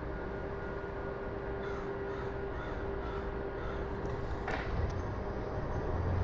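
A bird calling in a quick run of short calls, about three a second for a couple of seconds, over a steady low hum. A single sharp click comes about four and a half seconds in.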